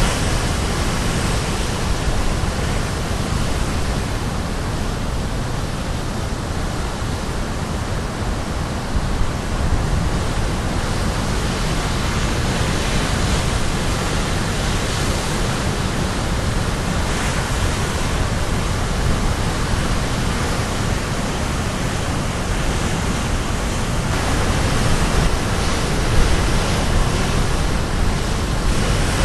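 Caribbean Sea surf breaking on a rocky shore, a steady rushing wash with waves swelling a little louder near the end.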